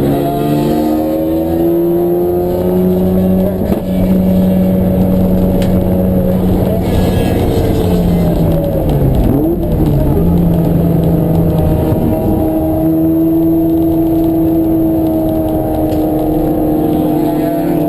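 Race car engine running hard at high revs, its pitch climbing slowly, with a brief dip about four seconds in and a quick drop and rise about nine seconds in, like shifts or a lift off the throttle.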